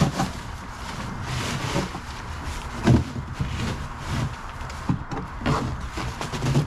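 Knocks and clunks from hands working on the leaf collection bag and its mounting bracket on a lawn tractor, tightening the fit. There are several irregular knocks, the loudest about three seconds in.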